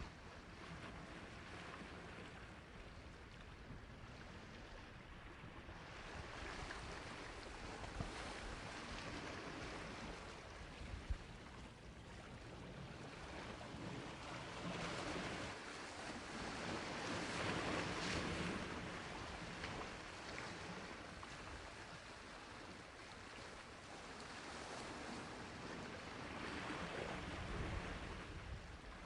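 Sea waves washing onto a shore: a steady surf wash that swells into slow surges and eases back between them, with two brief clicks in the first half.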